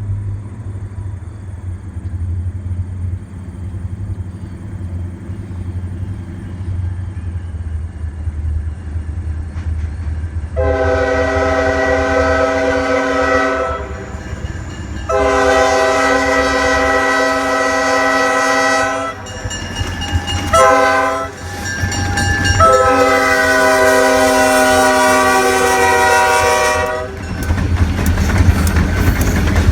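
A Maryland Midland diesel locomotive approaches with a low engine rumble, then sounds its multi-tone air horn: two long blasts, a short one, and a final long blast, the long-long-short-long signal for a grade crossing. After the horn, a louder rumble and rail clatter come as the train passes close.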